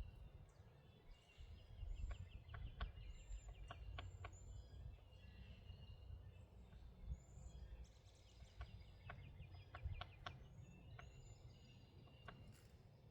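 Birds chirping and trilling: repeated short high chirps and quick rattling trills, over a steady low rumble of wind on the microphone.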